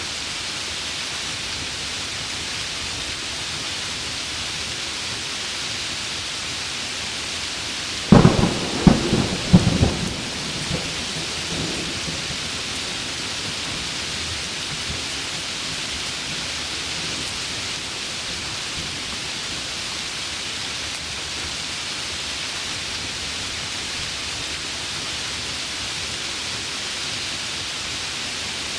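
Heavy rain falling steadily. About eight seconds in, a close thunderclap crackles and rumbles for about two seconds, then fades over the next two.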